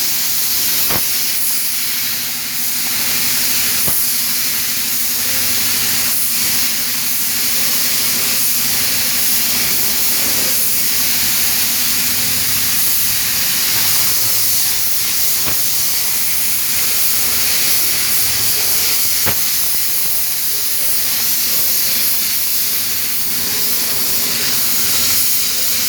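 Compressed-air paint spray gun hissing steadily as it sprays paint onto a car bumper.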